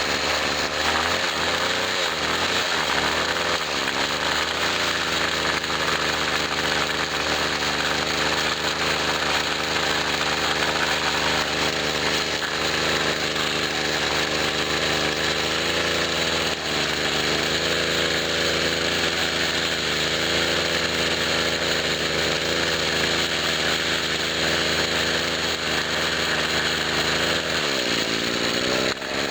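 1997 Husqvarna 24cc two-stroke string trimmer engine running at high speed, its pitch wavering in the first few seconds and dropping sharply then climbing back near the end. With the rebuilt carburetor's new metering diaphragm it takes throttle without bogging, though the carburetor tune still needs adjusting.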